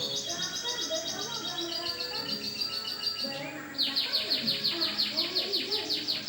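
Canary singing a lovebird-like song: quick repeated high chirps, then about four seconds in a louder, fast trill of evenly spaced notes, roughly eight a second.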